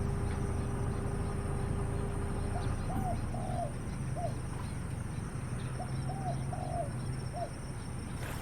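A bird calling twice in phrases of three or four short, low, arched notes, about three seconds apart, over a steady low hum and a thin high steady tone.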